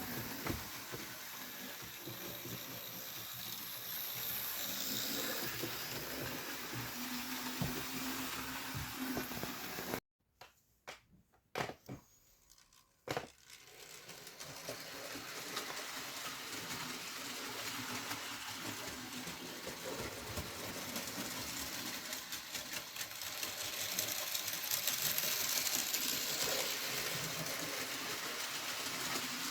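Model train running on the track: a steady whirring hum from its small electric motor. The sound cuts out about ten seconds in, with a few clicks, and returns after about three seconds.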